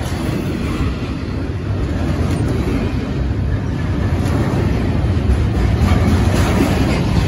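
Double-stack intermodal freight cars rolling past: a steady rumble of steel wheels on rail, growing a little louder over the second half.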